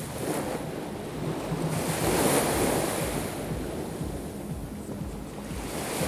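Black Sea surf breaking on the shore, a wave swelling loudest about two seconds in and washing back, with wind on the microphone.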